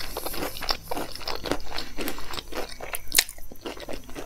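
Close-miked chewing of a crispy double-fried cauliflower pakora: a run of irregular, crisp crunches.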